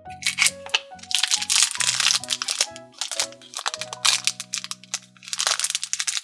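Crinkling and crunching of a surprise package's wrapping being torn open by hand, in two spells, the second near the end, over steady background music.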